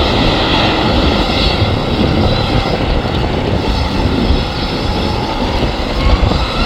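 Boeing 737-800 jet engines running with a steady whine, over heavy low rumble from strong gusting wind on the microphone.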